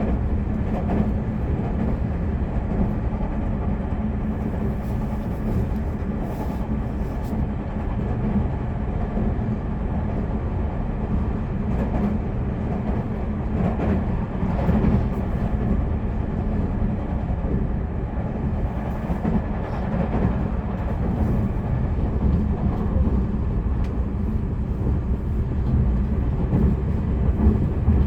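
Tobu Railway limited express train running, heard from inside the passenger car: a steady low rumble of wheels on rail, with a few brief louder rattles.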